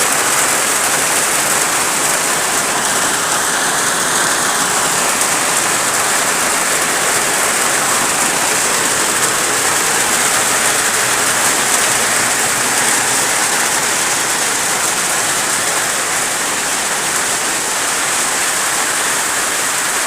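Steady rain falling, a dense even hiss that keeps on without let-up.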